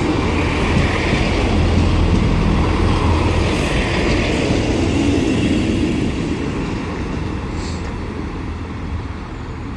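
A Class 158 diesel multiple unit running into the station and slowing, its rumble and wheel noise slowly fading.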